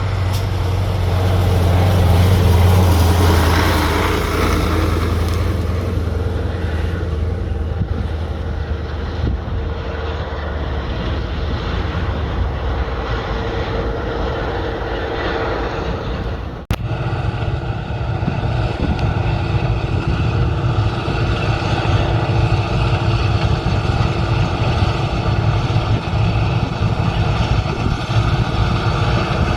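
Claas Lexion combine harvester running steadily while harvesting, its engine and threshing machinery making a continuous drone. A little past halfway the sound breaks off abruptly and goes on as a slightly different steady drone.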